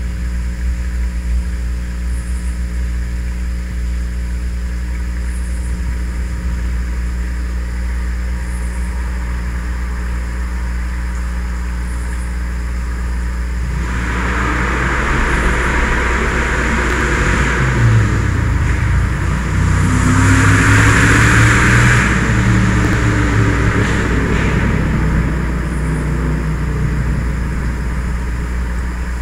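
A truck's engine revving loudly as it drives past, rising about halfway through, swelling twice and fading again, over a steady low drone.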